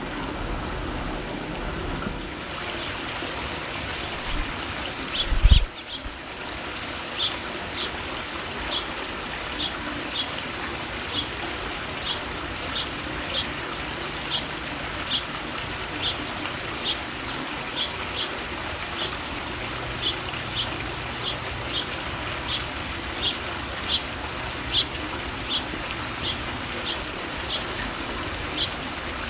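A bird calling with a short, sharp chirp repeated at an even pace, roughly one to two a second, over a steady hiss of background noise. A single thump about five seconds in is the loudest sound.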